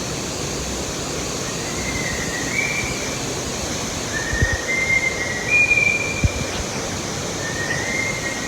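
Steady rushing background noise with a scattering of short, high, whistle-like notes, about half a dozen, spread through it.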